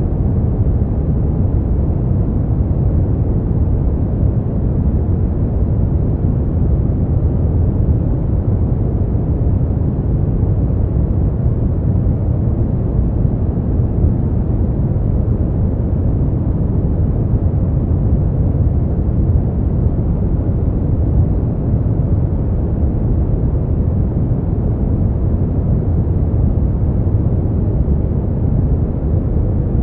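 Brown noise: a steady, deep rumbling hiss weighted heavily toward the lows, with no events or changes.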